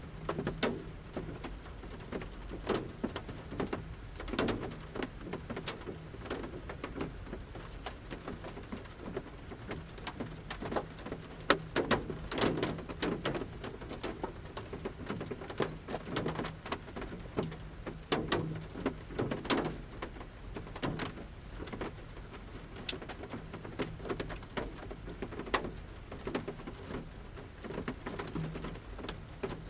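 Large raindrops falling from the forest canopy onto the roof of a camper van, heard from inside. They tap at irregular intervals, some strikes louder and ringing on the roof, over the soft hiss of light rain.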